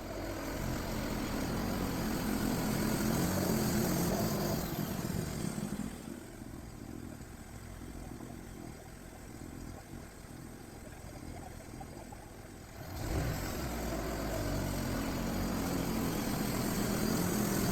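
Engine of a DIY bandsaw sawmill running as the mill goes back to sawing a pine log. The sound is louder for the first few seconds, drops to a quieter level for several seconds, and rises again about two thirds of the way through.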